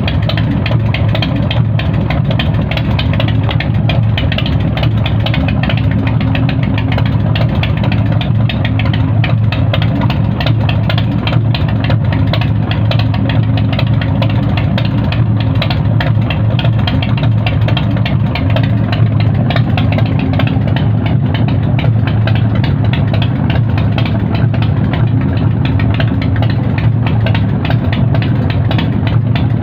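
BigDog motorcycle's V-twin engine idling steadily while warming up from a cold start, enricher on, running on newly fitted tappets.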